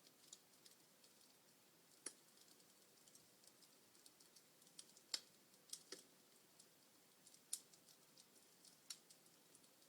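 Log fire crackling faintly: irregular sharp pops and snaps over a soft hiss, the loudest snaps about two, five and seven and a half seconds in.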